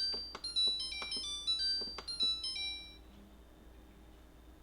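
Refrigerator control panel giving a quick melodic run of electronic beeps, with small button clicks, as the filter-indicator reset button is held; the tune stops about three seconds in.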